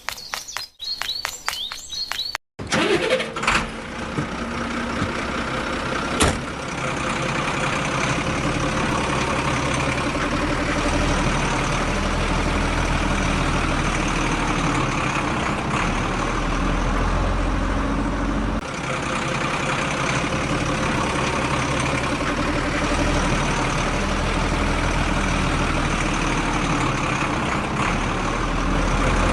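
Rapid clicking with bird chirps, then, from about two and a half seconds in, an engine that starts up and runs steadily with a low rumble, with one sharp click a few seconds after it starts.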